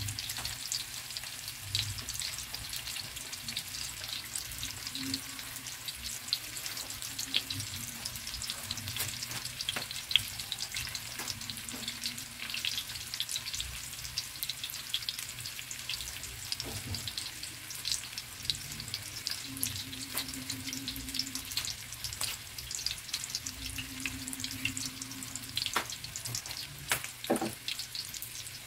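Breadcrumb-coated eggplant rolls shallow-frying in hot oil in a pan: a steady sizzle with dense, continuous crackling pops.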